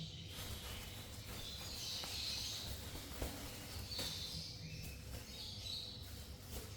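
A parrot chirping in short, repeated calls, with a few light clicks over a low background rumble.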